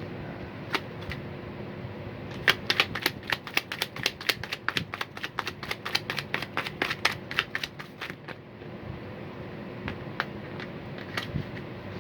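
Tarot cards being shuffled by hand: a quick run of light card clicks from about two and a half seconds in to about eight seconds, with a few single clicks before and after.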